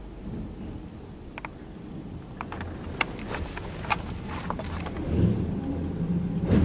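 Ryko Softgloss Maxx automatic car wash running around the car, heard from inside the cabin: a low rumble of the machine, with scattered ticks and spatters of water spray hitting the car body. The machine's rumble grows louder about five seconds in.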